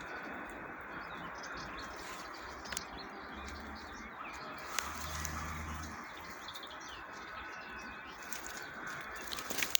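Faint short bird chirps over a steady hiss, with a few sharp clicks now and then.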